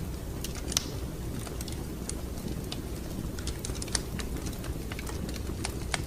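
Wood fire in a fireplace crackling: irregular sharp pops and snaps over a steady low rumble of the flames, with one louder pop about a second in.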